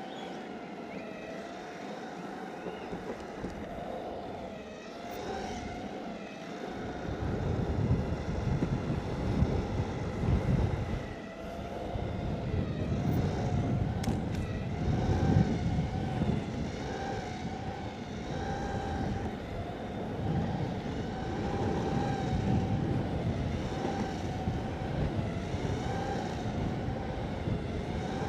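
Exway Flex Pro V3 electric skateboard riding: the motor's whine rises and falls with speed over a low rumble of wheels on asphalt and wind. The rumble gets louder about seven seconds in.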